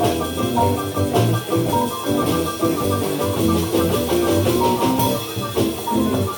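Live blues band playing, with many sustained instrument notes over a steady drum beat.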